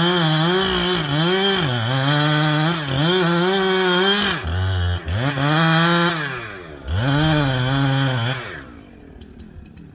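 Two-stroke chainsaw running at high revs in a cut, its pitch dipping and recovering again and again as the chain loads up in the wood. About halfway it drops briefly to idle, then revs back up, and it falls away near the end.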